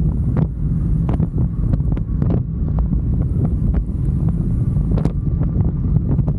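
Wind buffeting the microphone of a moving motorcycle, a heavy steady rumble, with many short clicks and knocks through it.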